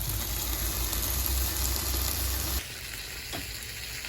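Thick-cut bacon sizzling in a pan, a steady frying hiss that drops quieter about two-thirds of the way through.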